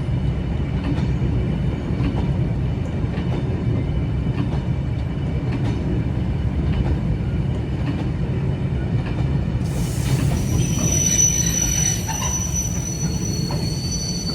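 Heritage passenger train running along the line, a steady low rumble with faint clicks from the wheels on the track. About two-thirds of the way through, the wheels start squealing against the rails in high, steady tones.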